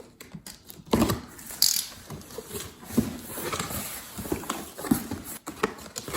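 Cardboard box being opened and its packed contents handled: an irregular run of knocks, scrapes and rustles of cardboard and packing.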